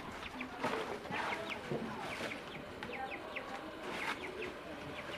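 Birds chirping: many short, quick calls, with a few sharp clicks.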